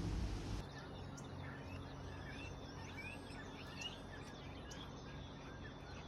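A loud rush of noise cuts off abruptly about half a second in. Then birds chirp: many short, quick calls over a faint low steady hum.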